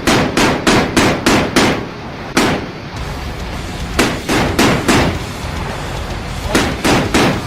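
Mark 38 25 mm chain gun firing in bursts at about three shots a second: a burst of about seven, a single shot, a burst of four, then three more near the end.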